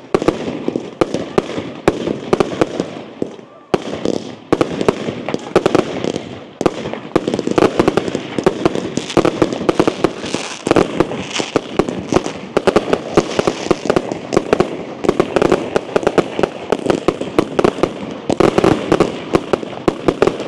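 Fireworks display: a dense, near-continuous barrage of loud bangs and crackles, with a brief lull about four seconds in.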